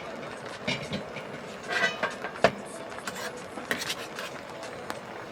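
Cookware and utensils clinking and clattering in a series of irregular knocks, the sharpest about two and a half seconds in.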